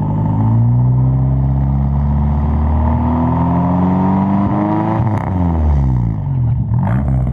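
Toyota Kijang engine revved through an Alpino K02 racing muffler, with the stock resonator replaced by straight pipe: the revs climb steadily for about five seconds, then drop when the throttle is let go, with a short blip near the end. The exhaust note is very loud.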